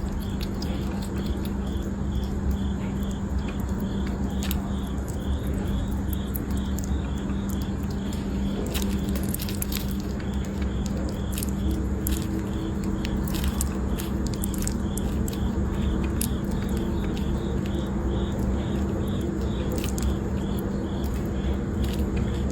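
A small pet nibbling and crunching food: scattered sharp clicks over a steady hum and low rumble.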